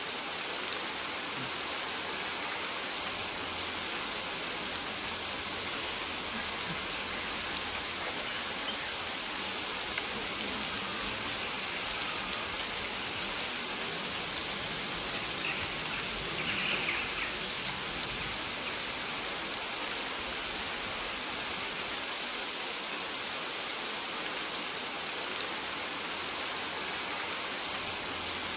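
Steady rain falling, with small high ticks every second or two.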